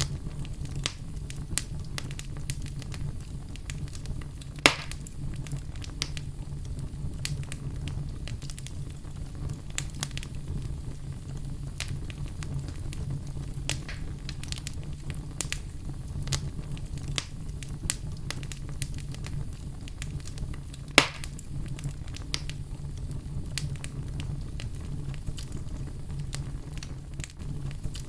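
Wood fire burning in a fireplace: a steady low rumble of flames with many scattered sharp crackles and two louder pops, about four seconds in and near the twenty-one-second mark.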